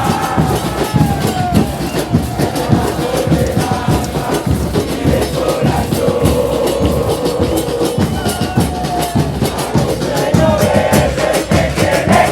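A crowd of supporters singing a chant together over steady, pounding drum beats.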